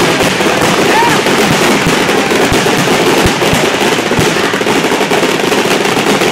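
Fireworks finale: aerial shells bursting in rapid, overlapping bangs and crackling with almost no let-up. A handful of heavier booms stand out between about two and four seconds in.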